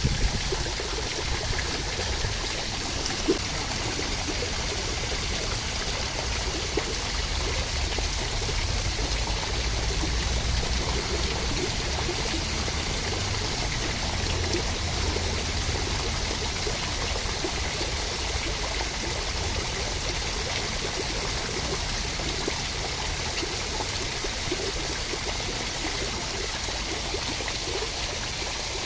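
Steady rain: an even, constant rush of water with a few sharper ticks near the start.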